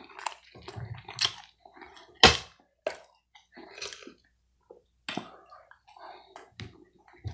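A person chewing food close to the microphone: irregular wet clicks and smacks of the mouth, with one sharper click a little over two seconds in.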